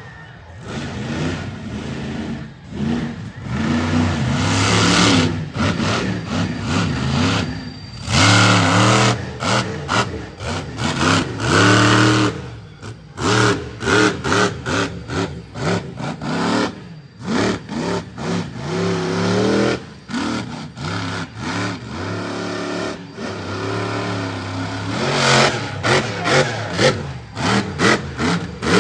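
Monster truck engine revving hard, its pitch climbing and dropping again and again with abrupt cut-offs as the throttle is worked through a freestyle run.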